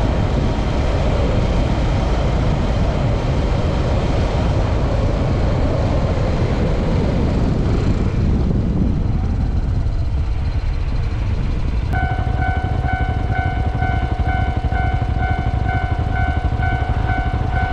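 Motorcycle running with heavy wind noise on the microphone, easing off about eight or nine seconds in as it slows. About twelve seconds in, a railway level-crossing alarm starts ringing at about two and a half dings a second.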